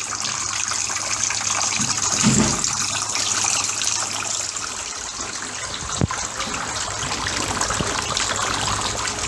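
Small homemade tabletop water fountain running, water splashing and trickling steadily, with one short knock about six seconds in.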